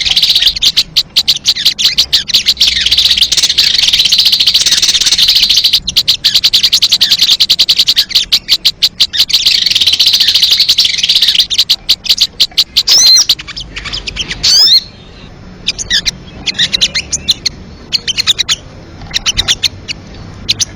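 Recorded bird-lure calls for sogon (sogok ontong) birds: a fast, high-pitched chittering trill for about twelve seconds, then a switch to short separate chirps and quick whistled sweeps.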